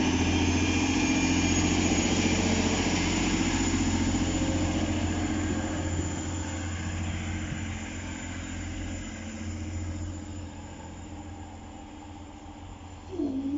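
Diesel train engine running steadily, then fading away over the second half as the train moves off. Just before the end a new steady tone starts with a brief dip in pitch.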